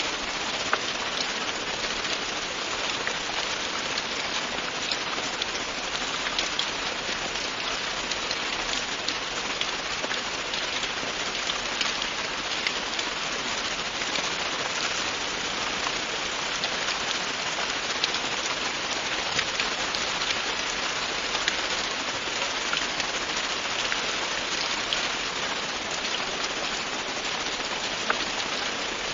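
Steady, continuous rain falling on a surface, an even hiss with many small drop ticks.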